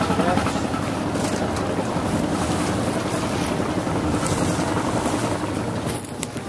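Wind noise buffeting the microphone over water washing along a sailboat's hull under way. The noise eases briefly near the end.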